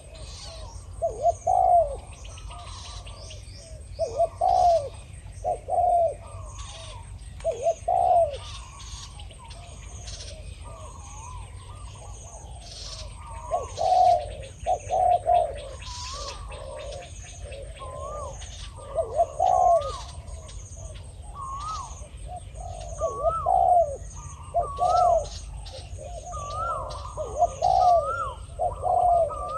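Spotted doves cooing in repeated short phrases every second or two: a caged decoy dove and a wild male calling back and forth. From about halfway, higher short rising-and-falling whistled notes from another bird join in.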